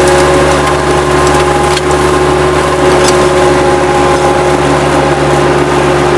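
Bobcat 763 skid-steer loader's diesel engine running steadily, with a few light clicks and knocks over it.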